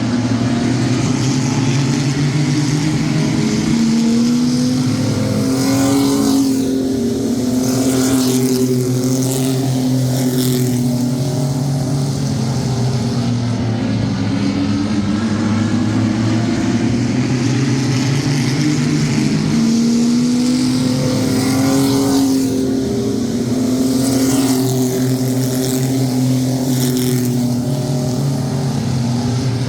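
A field of sport trucks (mini pickup race trucks) racing around a short oval, engines revving hard. The engine pitch climbs as the pack accelerates and sweeps close by twice, about 16 seconds apart, once per lap.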